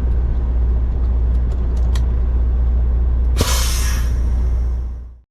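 Road-train prime mover's diesel engine running with a steady deep rumble; about three and a half seconds in, the air brakes let out a sharp hiss that dies away over a second or so.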